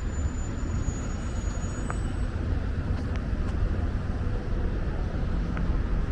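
Steady low rumble of city street ambience, like distant traffic, with a few faint ticks scattered through it.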